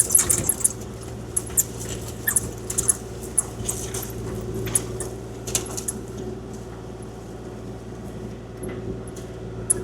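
Kubota KX040-4 compact excavator's diesel engine running at a steady pitch, with scattered sharp clicks and ticks over it throughout.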